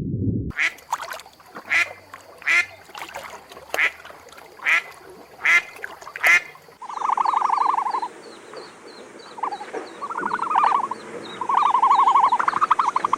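Ducks quacking: a row of short single quacks about once a second, then a run of longer, rapid rasping quack series.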